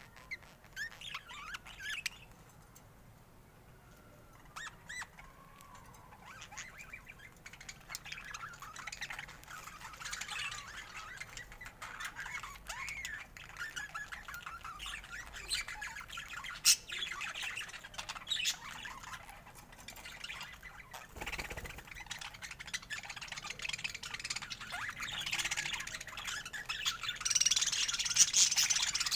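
Budgerigars chattering and chirping, a busy stream of short squawks and warbles with a few sharp clicks, sparse at first and growing louder and denser near the end.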